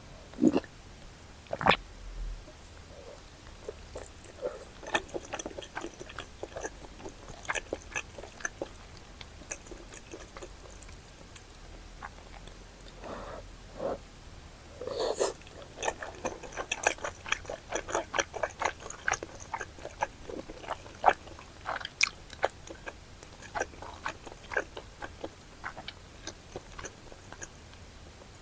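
Close-miked wet chewing and mouth sounds of someone eating spicy chicken and intestine stew: many short smacks and squishy bites, sparse in the first half and quick and dense from about halfway.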